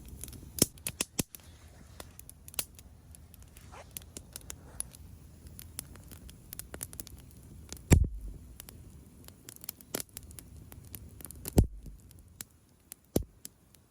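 Wood campfire crackling, with sharp irregular snaps and pops throughout. Two louder thumps stand out, one a little past the middle and one near the end.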